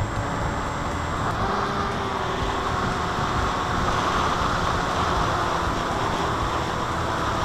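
Electric motor and propeller of a small RC FPV airplane running steadily in flight, its whine slowly wavering in pitch with throttle, over a constant rush of wind and air noise.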